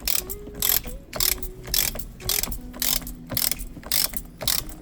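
Ratcheting torque wrench tightening the steering-wheel bolt: the ratchet rattles in short strokes, about two a second, as the bolt is run down.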